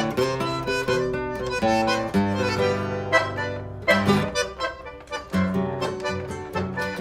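Instrumental chamamé: accordion playing the melody over plucked guitar, with a brief lull about two-thirds of the way through.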